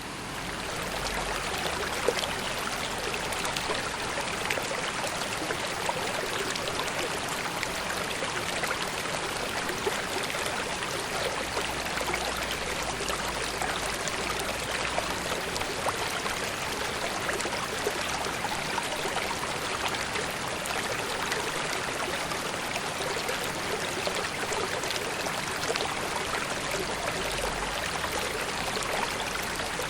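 River water flowing steadily: a continuous even rush with many small splashes and trickles in it.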